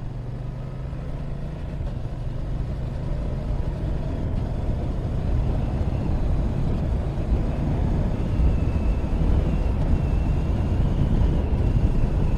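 A motorcycle riding along: engine and wind rumble on the bike-mounted camera, growing steadily louder as the bike picks up speed.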